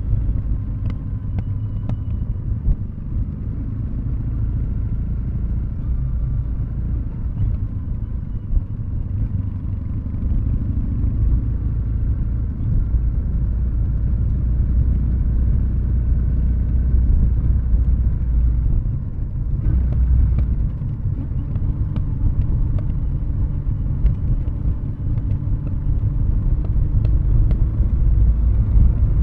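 Kawasaki W650 air-cooled parallel-twin engine with aftermarket Nasert Trad mufflers, running at low revs off the throttle as the bike coasts downhill on engine braking: a steady low exhaust rumble.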